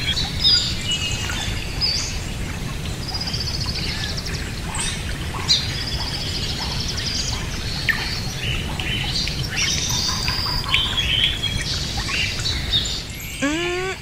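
Birds chirping and trilling in many quick, high calls over a steady low background noise.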